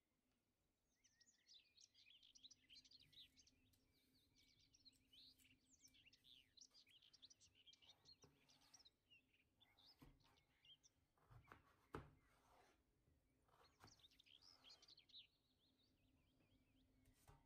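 Small birds chirping and twittering quickly and quietly, over a faint steady hum. A few sharp knocks come about ten to twelve seconds in.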